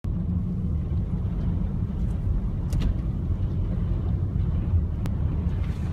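Steady low rumble of a car driving, heard from inside the cabin, with two faint ticks.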